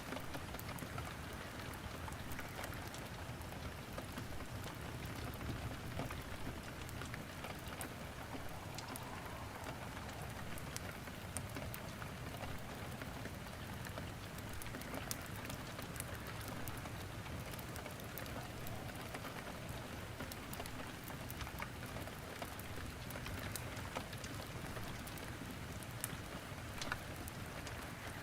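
Steady rain hissing evenly, mixed with the crackle of wood burning in a fireplace: small sharp pops and ticks scattered irregularly throughout.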